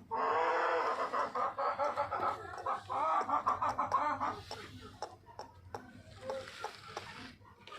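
Parrot-beak aseel chickens calling: one long wavering call lasting about four seconds, then quieter short clucks and clicks.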